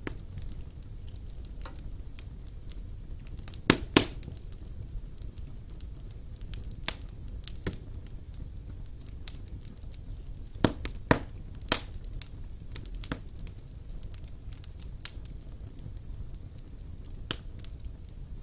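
Wood fire burning in a fireplace: a steady low rumble of flames with irregular crackles and sharp pops of burning logs, the loudest pops a pair about four seconds in and a cluster at about eleven seconds.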